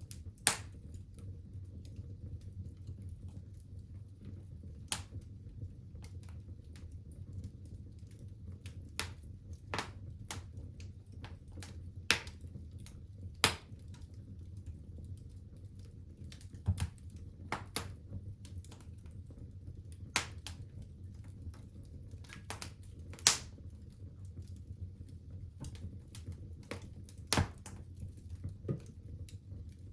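Wood fire crackling in a fireplace: irregular sharp pops and snaps, about one a second with a few louder cracks, over a low steady rumble of the burning fire.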